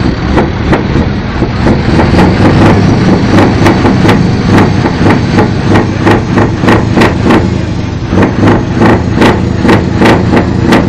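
Scania R560 truck's V8 diesel engine running loudly, with a series of sharp cracks, about two to three a second, starting about two seconds in.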